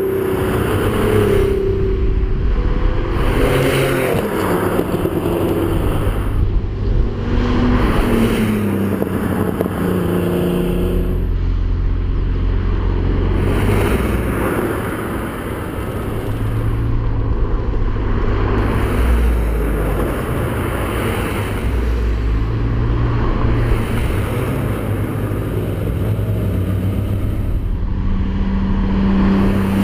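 Car engines running on a winding road, the revs rising and falling with gear changes, over steady road and wind noise.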